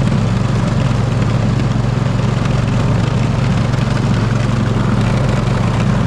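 Poulan riding mower engine running at a steady speed while pushing a snow plow blade.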